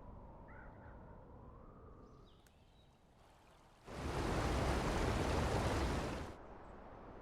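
A film soundtrack: a faint low rumble, then a loud rushing noise that starts suddenly a little under four seconds in, holds for about two and a half seconds and cuts off abruptly.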